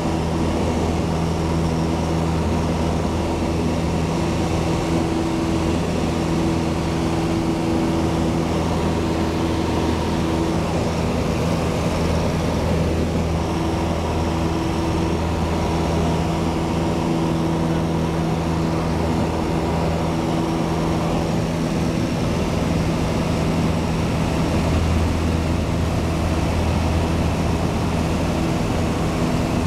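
Piper Cherokee's piston engine and propeller running steadily, a constant drone heard from inside the cabin.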